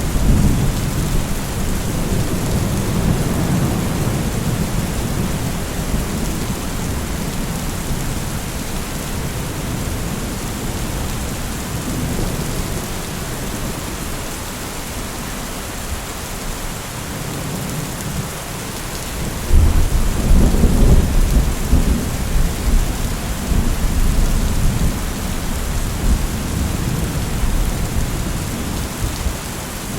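Steady heavy rain with thunder rumbling twice: a long roll at the start, then a louder one that breaks in suddenly about twenty seconds in and rolls away over several seconds.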